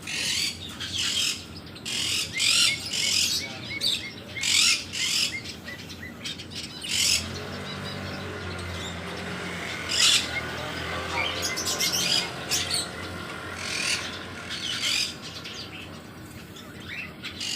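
Budgerigar chatter: repeated short, sharp chirps and squawks, with a low steady hum underneath through the middle.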